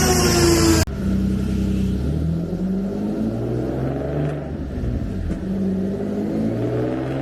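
Single-turbo Nissan 370Z's VQ37VHR V6 running. A high engine note falls in pitch and cuts off abruptly about a second in. After that the engine runs at a lower note, revs rising and falling several times.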